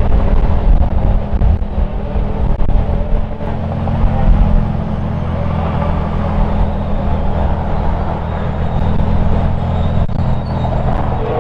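Lamborghini Huracán Sterrato's naturally aspirated V10 running at a steady low-speed idle as the car creeps past.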